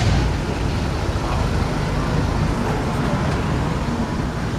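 Steady low rumble of car traffic and engines running, with faint voices in the background.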